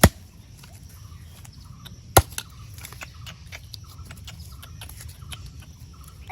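A bird calling in short, evenly pitched notes repeated every half second or so, over many small clicks. Two sharp loud knocks stand out, one at the start and one about two seconds in.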